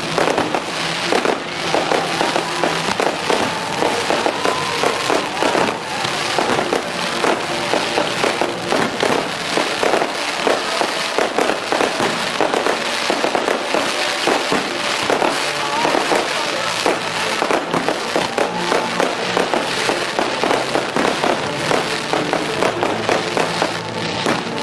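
Fireworks and firecrackers going off in a dense, rapid crackle of bangs without a break. Music with a melody plays underneath.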